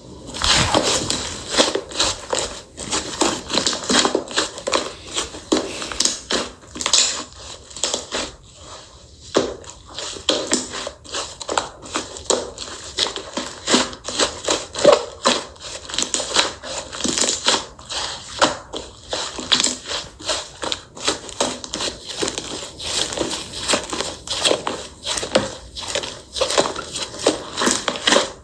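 Slime being squeezed, pressed and folded by hand, giving a dense run of crackling, popping clicks.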